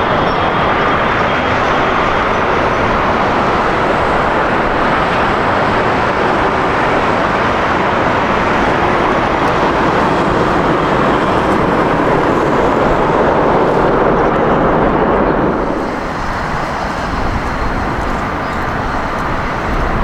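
Loud, steady jet engine noise of an airliner passing close. It eases off about four seconds before the end.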